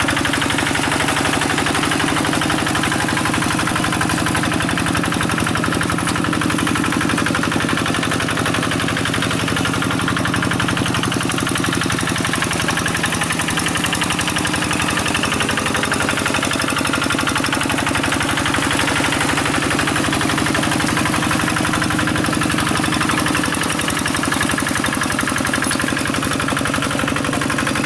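Quick G1000 two-wheel hand tractor's single-cylinder diesel engine running steadily with a rapid, even knocking beat.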